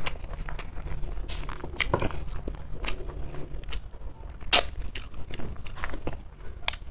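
Close-miked eating sounds, a person chewing a mouthful of rice and curry: irregular wet smacks and clicks of the mouth.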